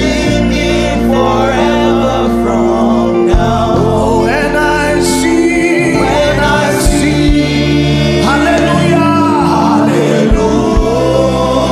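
Gospel worship music: drawn-out, sliding sung lines over steady held backing chords and bass.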